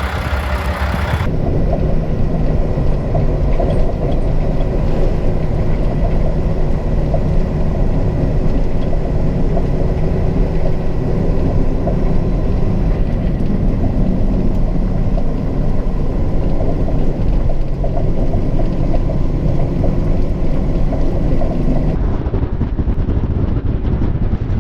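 Heavy snowplow truck running, a steady low engine and drivetrain rumble with a faint steady whine. The sound changes abruptly about a second in and again near the end.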